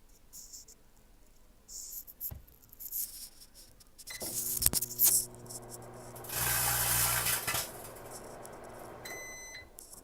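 Microwave oven running with a steady electrical hum, a loud rushing crackle for about a second and a half midway as the chip bag shrinks inside, then a quick series of short beeps near the end as the cycle finishes.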